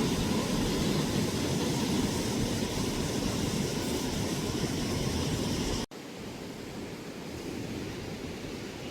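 Steady rush of flowing water from a waterfall-fed stream. It cuts out abruptly about six seconds in and comes back quieter.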